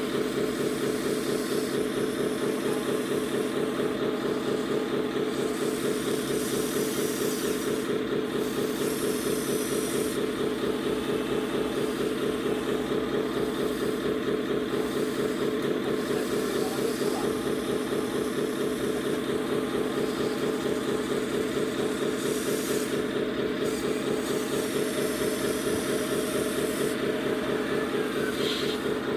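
Scale RC truck's electronic sound module playing a diesel engine at idle: a steady, even throb that does not change speed.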